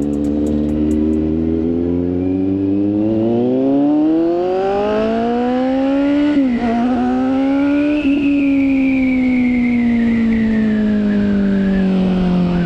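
Kawasaki Z900 inline-four motorcycle engine pulling under acceleration, its revs climbing steadily. The pitch dips briefly about six seconds in with a quick upshift and climbs again, then the revs wind slowly down.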